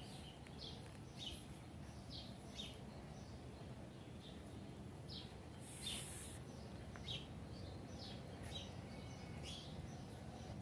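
Small birds chirping faintly in short, high notes repeated every second or so, over low background outdoor noise, with a brief high hiss about six seconds in.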